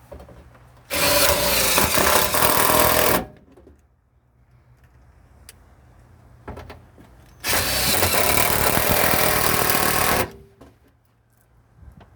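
Power drill driving self-tapping screws into aluminium sheet: two runs of two to three seconds each, starting and stopping sharply, with a pause of about four seconds between.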